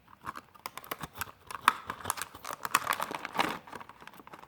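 Small plastic-and-card diecast packaging being handled: a run of irregular clicks, taps and crinkles, busiest in the middle.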